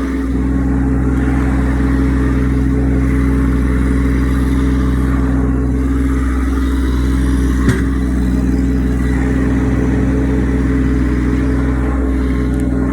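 Massey Ferguson tractor engine running at a steady speed under load, with a single sharp knock a little past halfway.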